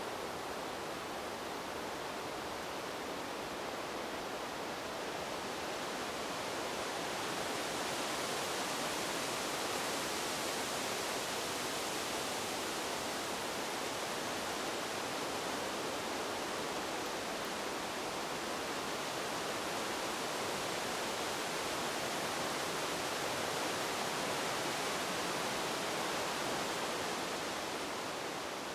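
Wind blowing through trees, a steady rushing of leaves that swells up for a while and then fades away near the end.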